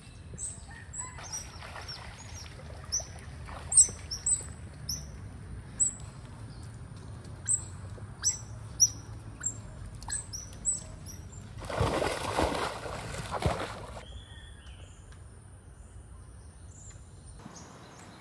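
Birds chirping: many short, high, repeated chirps over a steady outdoor background. Past the middle, a louder rush of noise lasts about two seconds, then only quieter ambience remains.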